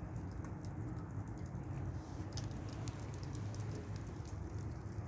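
Campfire crackling: scattered sharp pops and ticks, more frequent in the second half, over a steady low rumble.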